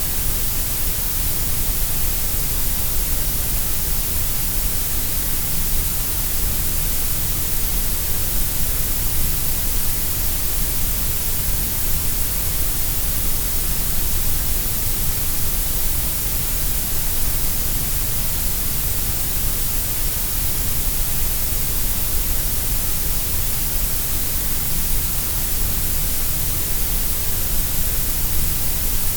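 Steady grey noise: an even, unchanging hiss with more weight in the deep lows and the high treble than in the middle.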